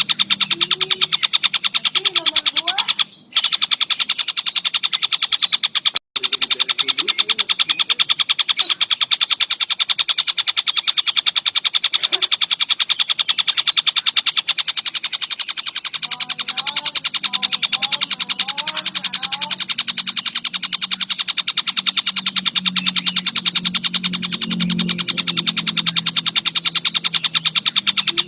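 Tengkek buto kingfisher calling nonstop in a dense, very rapid chatter of harsh, high-pitched notes. It breaks off briefly about three seconds in and again about six seconds in.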